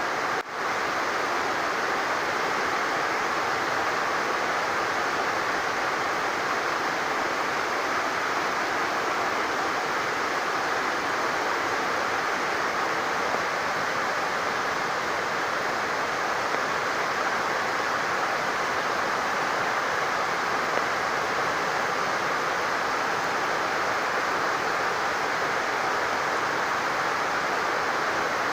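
Heavy rain falling steadily, together with overflowing water pouring off, a dense, even rush with a brief dropout about half a second in.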